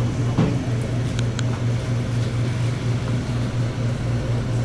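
A steady low mechanical hum, with a soft knock early on and a couple of faint ticks about a second in.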